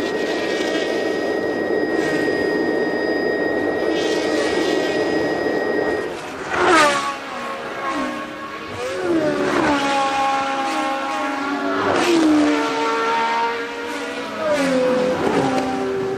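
1982 Formula One cars racing past. For the first six seconds several engines blend together at high revs. After that about four cars go by one after another, each engine note dropping in pitch as it passes.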